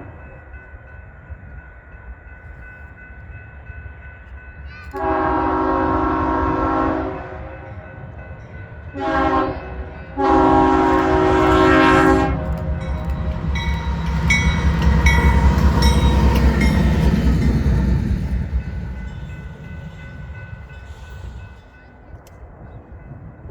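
Diesel locomotive horn sounding a long blast, a short one and another long one, the end of the standard grade-crossing signal. The train then passes with a heavy low rumble and wheel clatter that swells to a peak and fades away.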